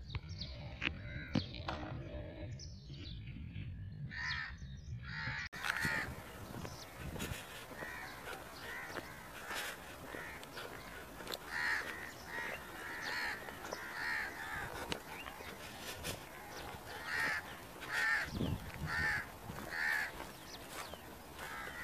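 Birds calling outdoors: a run of short, harsh calls repeated roughly once a second, loudest around twelve seconds in and again near the end.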